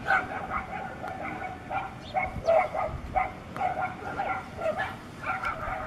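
A dog giving a rapid, unbroken run of short high-pitched cries, several a second.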